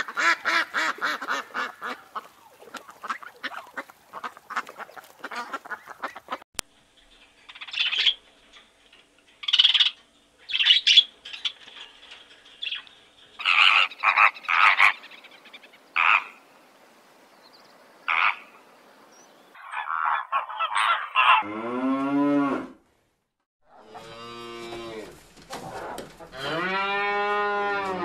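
A run of animal calls. For the first six seconds a duck and her ducklings call in rapid repeated notes. Flamingos then give short, separate honking calls. From about twenty seconds in, Holstein dairy cows moo in long, low calls, the loudest near the end.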